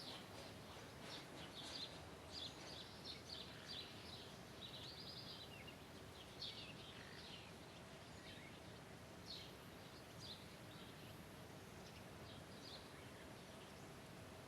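Birds chirping faintly in short, high calls. The calls come thick and fast through the first half and grow sparser later, over a quiet, even background hiss.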